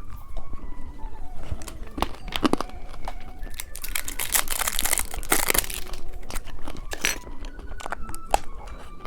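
Plastic candy wrappers crinkling and rustling, with sharp clicks and a tearing rustle in the middle as a sweet is handled and opened, over faint background music.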